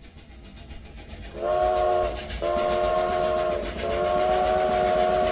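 Train sound effect: a steam locomotive chugging and building up, then its multi-note chime whistle blowing three times, two shorter blasts and a longer one.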